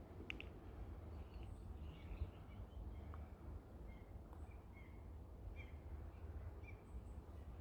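Low, steady rumble of distant ocean surf, with faint, scattered bird chirps over it.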